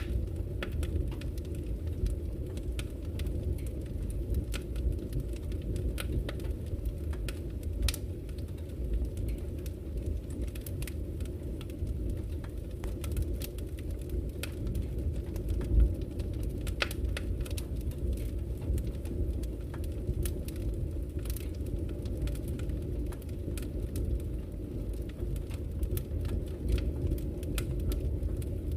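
Wood fire burning in a fireplace: a steady low rumble of the flames with irregular sharp crackles and pops from the burning logs, and one louder pop about halfway through.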